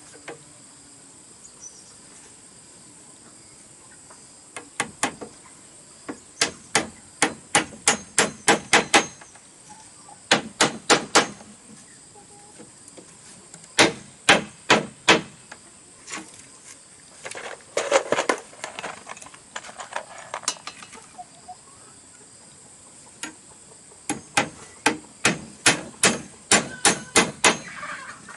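Runs of sharp hammer blows, about three or four a second, in several bursts with pauses between, as bamboo is being built into a dog house. Insects trill steadily underneath.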